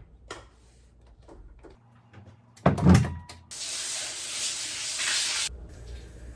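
A few small clicks and knocks, then a heavy thud like a door being shut, followed by about two seconds of steady hiss that stops suddenly.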